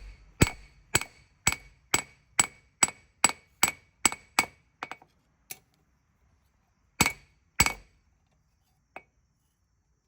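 Hand hammer striking a small spring-steel knife blade on an anvil, straightening it: about a dozen ringing blows at roughly two a second, then a pause, two more blows about seven seconds in, and a light tap near the end.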